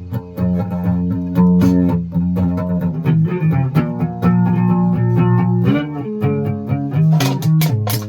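Music of plucked guitar notes over a low bass guitar line, picked continuously.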